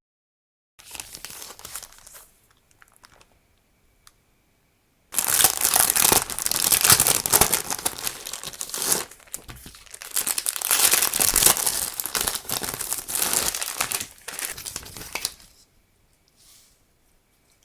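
Crinkly wrapping being handled and rustled: a short spell of crinkling about a second in, then a loud, continuous stretch of crinkling and crackling for about ten seconds from around five seconds in.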